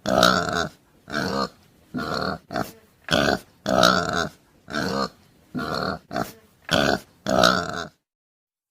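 Pig grunting and oinking: a run of about eleven short, pitched grunts roughly every half second, stopping just before the end.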